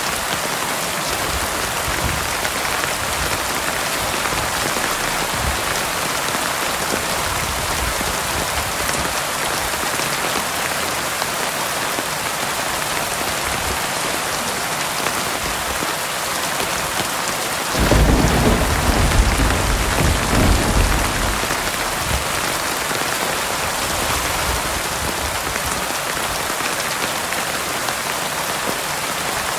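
Heavy rain falling steadily in an even hiss. A little past halfway, a sudden clap of thunder breaks in and rumbles low for about four seconds before fading back under the rain.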